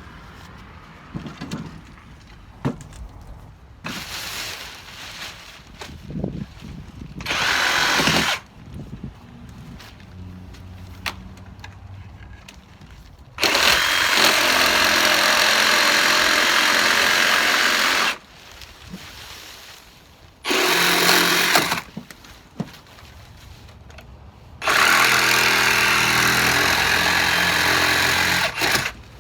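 Milwaukee power saw cutting off old wood shims around a window frame, run in bursts: two short runs in the first third, then longer runs of about four seconds in the middle and near the end, with quieter pauses and small knocks between.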